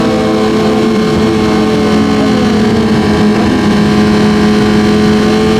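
Stock drag-racing motorcycle engine held at steady high revs, one constant tone.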